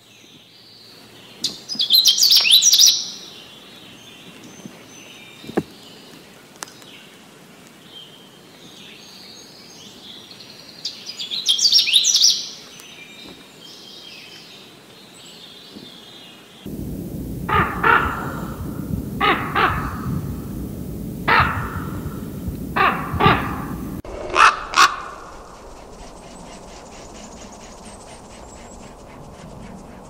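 A Canada warbler singing two short, jumbled, high songs, about 2 and 12 seconds in. Then, from about 17 seconds in, a common raven croaking repeatedly, with harsh calls a second or two apart.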